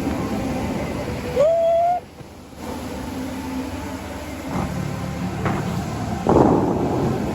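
Water jets of a large show fountain rushing and splashing down, a steady noisy wash with louder surges about four and a half and six and a half seconds in. A brief rising tone sounds about a second and a half in.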